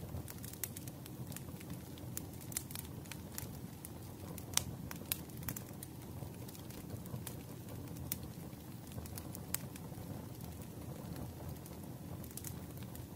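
Crackling wood fire in a fireplace: a steady low rumble with irregular sharp pops and snaps, one louder pop about four and a half seconds in.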